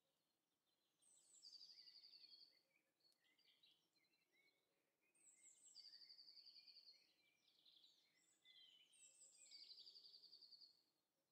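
Faint songbird ambience: a bird sings the same short song three times, each a fast high trill followed by a few lower chirps.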